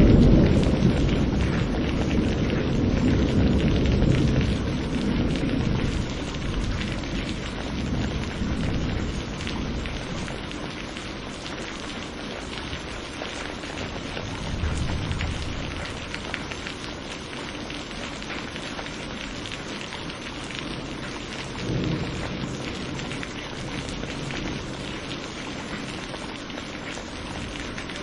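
Steady rain falling in a thunderstorm, with a long low roll of thunder at the start that slowly fades, and a shorter rumble of thunder later on.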